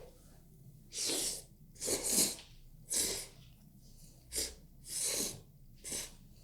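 Instant noodles being slurped up close to the microphone: about seven short, airy slurps, one every second or so.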